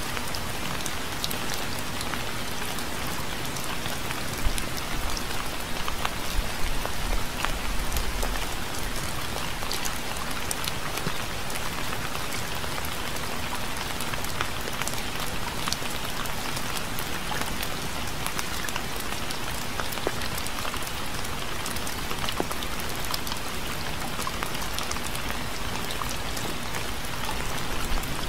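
Steady rain falling on a surface, a continuous hiss with many separate drop ticks through it. A low rumble swells briefly about five seconds in and fades out a few seconds later.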